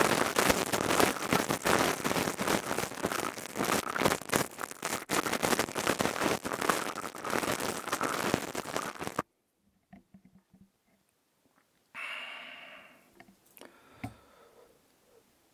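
Crystal tube rubbed and scratched close to the microphone as an ASMR trigger: dense crackling and scraping that stops abruptly about nine seconds in. A brief, fainter sound with a few steady tones follows about three seconds later.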